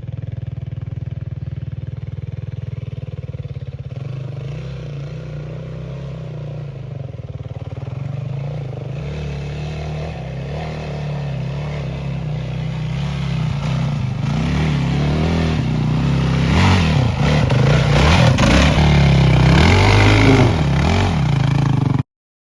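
Dirt bike engine running steadily at first, then revving up and down and growing louder over the last several seconds. The sound cuts off suddenly near the end.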